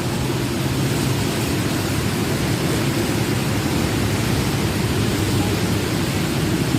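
Heavy rain falling: a steady rushing noise with a deep rumble underneath.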